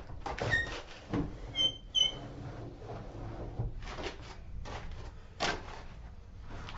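Scattered knocks and clatter of things being handled, with a few short high squeaks in the first two seconds.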